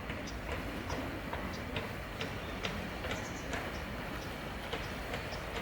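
Regular sharp clicks, a little over two a second, over a steady low rumble.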